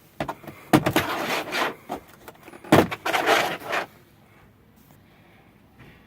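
Two loud, rough bursts of clattering noise, each about a second long, around one and three seconds in.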